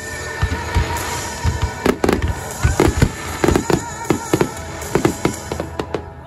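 Firework display barrage: many shell bursts and bangs in quick, irregular succession, a few a second, with crackle between them. Music plays steadily underneath.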